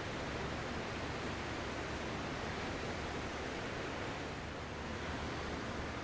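Ocean surf as a steady, continuous wash of waves, with no single wave breaking out from the rest.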